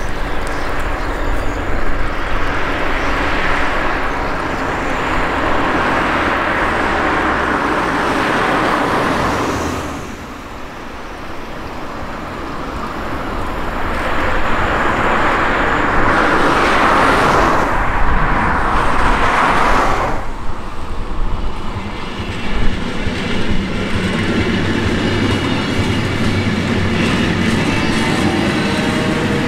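Electric passenger train on the line, a continuous rush of wheel-on-rail noise with some clickety-clack. It builds to its loudest and cuts off abruptly about twenty seconds in, then carries on steadier with faint whines.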